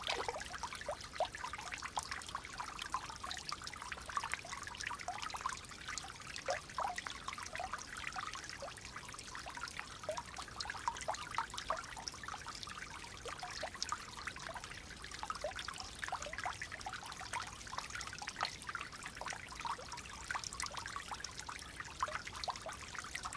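Clear water flowing gently and trickling: a steady bubbling with many quick plinks and small splashes.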